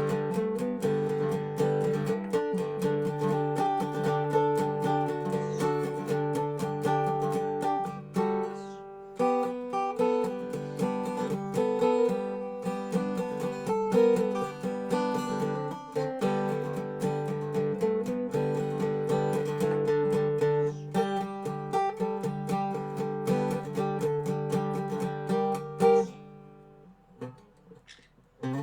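Dobro resonator guitar played blues-style, a steady run of plucked notes. It breaks off briefly about eight seconds in, then stops for a couple of seconds near the end before starting up again.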